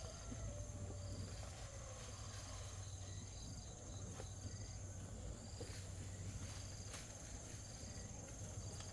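Insects calling: a steady high drone with short chirps repeating about once a second, over a low steady hum.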